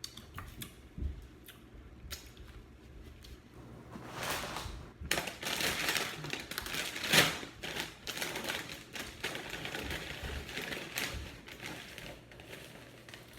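Crunchy tortilla chips being chewed close to the microphone: a quiet patch, then from about four seconds in a dense run of crisp crackles and crunches that thins out near the end.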